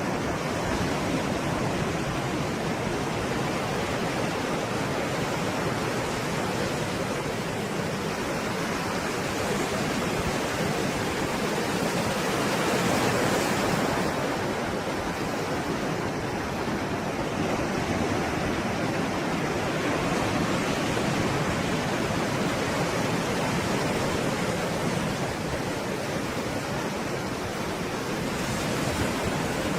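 Stormy sea surf: a continuous rush of breaking waves, swelling a little louder about halfway through.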